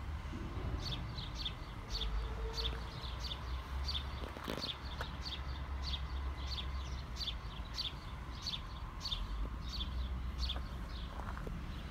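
A small bird chirping over and over, short high chirps about three a second, over a low steady rumble.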